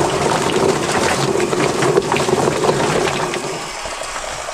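Homemade Whizbang-style chicken plucker running with a hiss of spraying water and many small knocks as the scalded bird tumbles against the rubber fingers. The sound drops off about three and a half seconds in.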